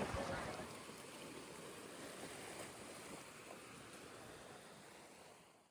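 Faint, steady outdoor background noise, like wind or water, sinking slowly and fading out to silence near the end.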